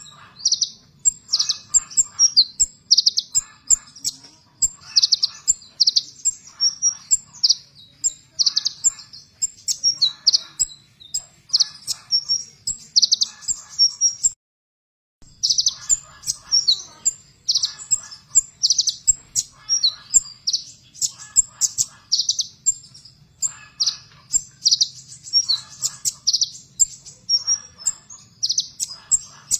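A sunbird known to bird-keepers as kolibri ninja (konin) sings rapid, harsh 'tembakan' bursts: short, sharp, very high chattering phrases repeated about once a second. The song stops briefly a little after halfway, then resumes.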